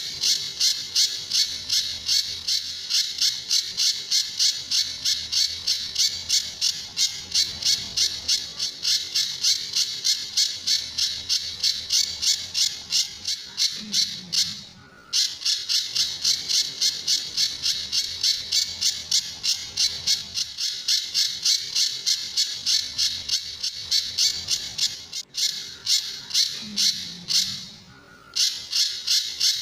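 Pijantur bird calling in its 'tembakan' style: a fast, even volley of sharp, high-pitched notes, several a second. The volley runs long with a short pause about halfway and another near the end.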